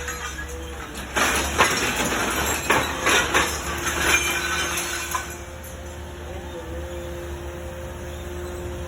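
Irregular metallic clanks and clinks for about five seconds, then a steadier, quieter machine hum with a faint steady whine.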